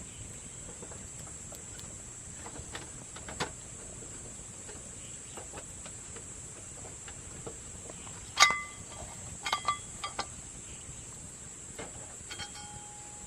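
Wood fire crackling with scattered sharp pops and clicks, the loudest a sharp crack about eight seconds in with a brief ringing after it, over a steady high chirring of insects.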